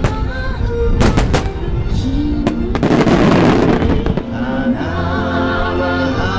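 Fireworks bursting over show music: a few sharp bangs about a second in, then a dense burst of crackling around the middle.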